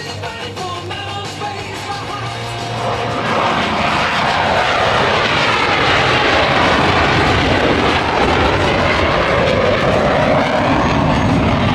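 Music fades under, and about three seconds in the jet noise of a Blue Angels F/A-18 Super Hornet swells in loud and holds, with a sweeping rise and fall in tone as the jet flies past after takeoff.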